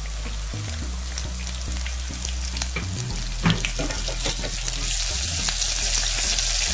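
Sliced red onion frying in hot oil with garlic and dried chillies for a tarka, a steady sizzle while a spatula stirs it in a stainless steel pot. The sizzle grows louder about halfway through, just after a few knocks of the spatula against the pot.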